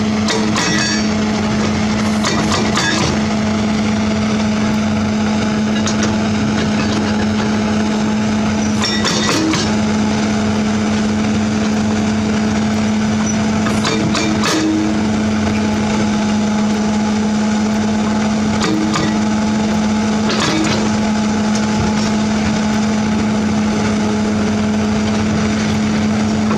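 Heavy diesel earthmoving machine running steadily at a constant engine speed, with a short knock every few seconds.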